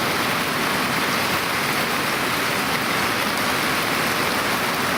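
Heavy pouring rain, a steady dense hiss of drops hitting the ground.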